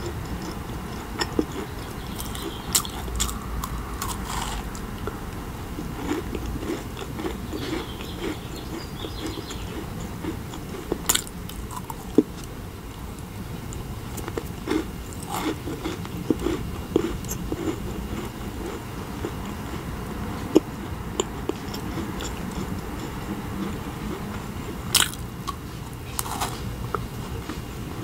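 Close-miked ASMR eating: biting into and chewing macarons, with wet chewing and scattered small crisp clicks as the shells break.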